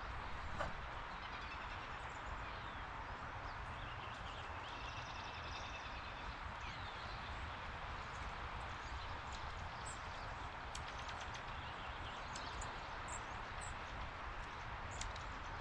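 Backyard outdoor ambience: a steady background rush with faint songbird chirps and twitters, mostly in the first half, and scattered short high ticks later on. One sharp click about half a second in.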